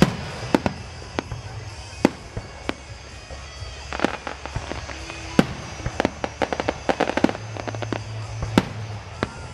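Aerial fireworks bursting: single sharp bangs every second or so, with a fast run of crackling reports about six to seven seconds in.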